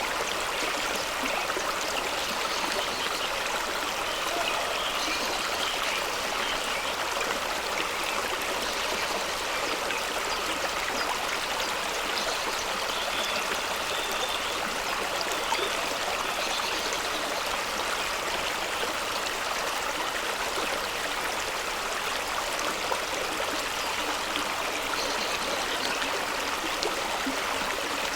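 Fast-running stream splashing and rushing over rocks, a steady hiss of water with small gurgles and splashes through it.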